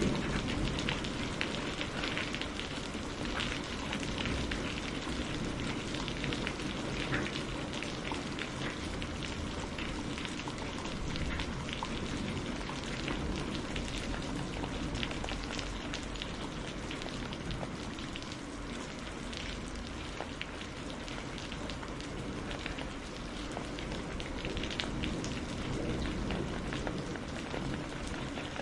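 Steady rain falling on a surface, a dense even hiss with many close individual drop ticks.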